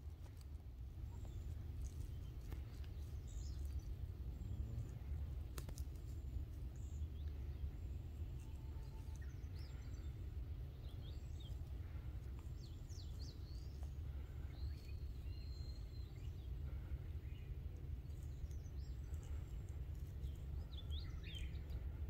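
Wild birds calling and singing in short, scattered chirps over a steady low rumble, with one sharp click about five and a half seconds in.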